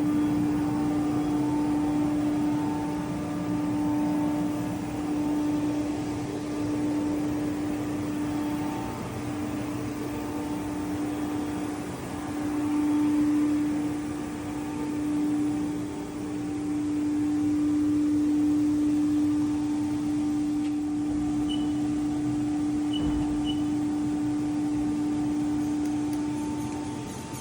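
Haas VF-2 CNC vertical mill running, a steady hum with one held pitch that swells and fades in loudness. A few short high beeps sound near the end.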